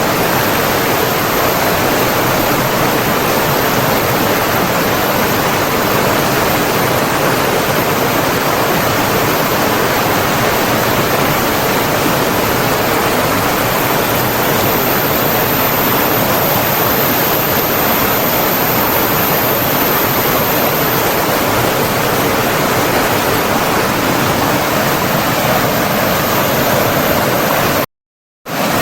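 Steady, dense rush of flowing water, cutting out to silence for a moment shortly before the end.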